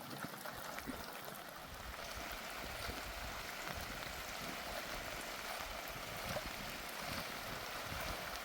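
Steady rushing of water, an even hiss without distinct events that grows a little fuller about two seconds in.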